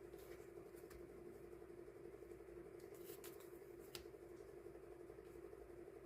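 Faint handling of sticker sheets and packaging: a few light clicks and rustles, the clearest about three and four seconds in, over a steady low room hum.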